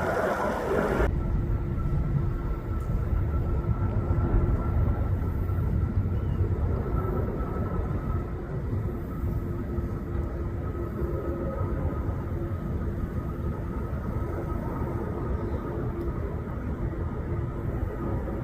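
Jet airliner engines: a steady low rumble with two steady whining tones above it. The sound changes abruptly about a second in.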